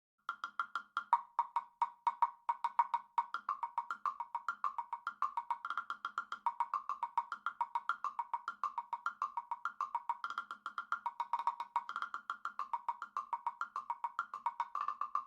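Wood blocks struck in a fast, steady rhythm, alternating between a lower and a higher pitched block.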